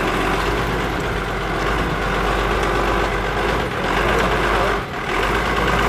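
Rally race truck's heavy engine running steadily, with a deep rumble, briefly dipping twice near the end.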